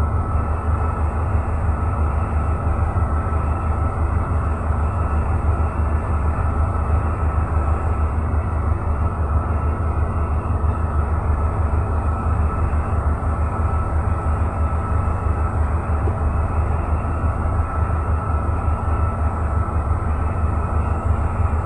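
Marine diesel engine running steadily under way: a loud, even, deep rumble with a fast pulsing beat and no change in speed.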